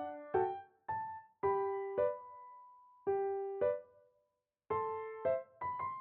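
Background piano music: a melody of separate notes, each struck and ringing out as it fades, with a brief pause about two-thirds of the way through.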